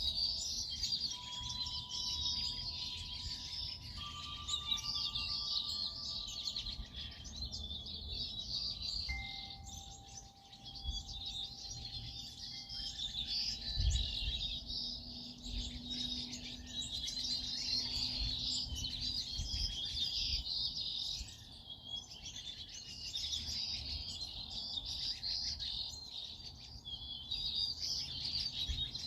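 A dense chorus of many small birds chirping and twittering continuously, with overlapping rapid high-pitched calls.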